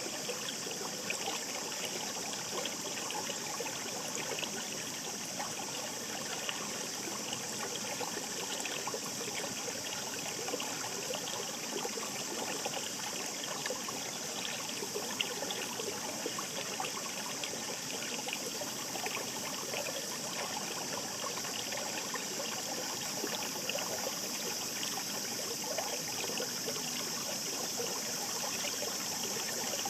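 Shallow mountain stream babbling steadily: continuous rushing water with fine trickling and splashing.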